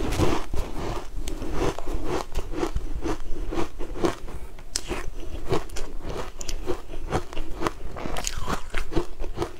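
A person chewing a green-dusted cake close to a clip-on microphone, with crisp crunching strokes about two a second.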